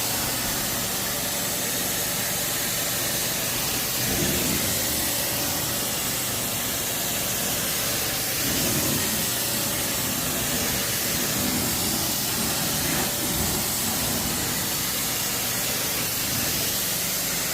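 Hot-water carpet extraction machine running steadily: an even, loud hiss of its spray and vacuum over a steady motor hum.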